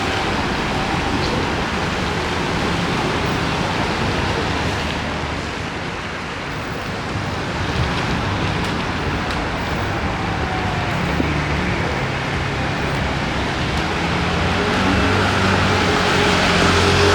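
Steady city street traffic: the even noise of passing cars and their engines, with a vehicle's engine growing louder near the end.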